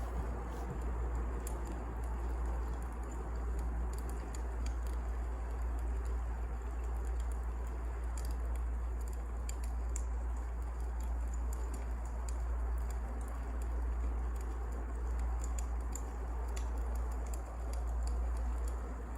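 Wood fire burning, with a steady low rumble and scattered sharp crackles and pops throughout.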